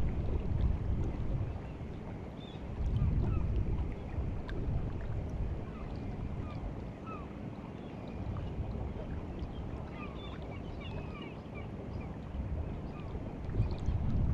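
White Sea water at the shore of Kandalaksha Bay as the tide comes in: a low rumbling wash that swells and eases, louder about three seconds in and again near the end, with wind on the microphone. Many faint, short high chirps are scattered through it.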